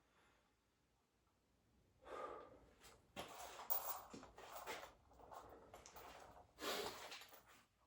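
A man breathing hard from the exertion of lifting weights: a run of forceful exhales and gasps that starts about two seconds in.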